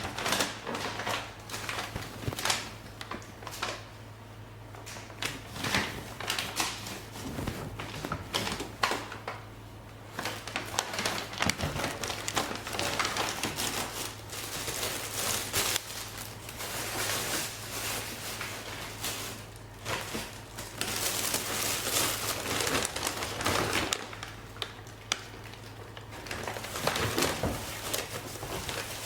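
Plastic bags and packaging crinkling and rustling as items are handled, with irregular small clicks and knocks of containers, over a steady low hum.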